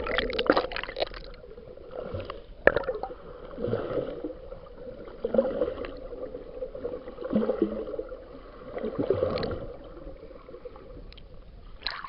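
Seawater sloshing and gurgling close to the microphone, swelling and falling in several irregular surges.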